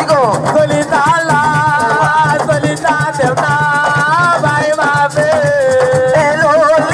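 Assiko band music: a shaker rattling steadily under a lead melody that slides and wavers, with drums beneath.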